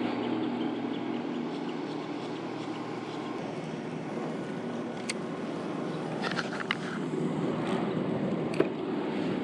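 Electric kayak trolling motor humming as it holds the kayak in place on spot lock, a steady motor hum with several pitched lines that eases off about two seconds in and picks up again near the end. A few sharp clicks and ticks come over it, the loudest a single knock near the end.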